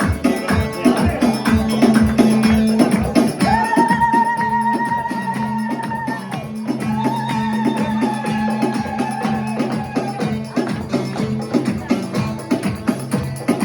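Live Chaldean band dance music: a fast, steady percussion beat, with two long held melody notes in the middle.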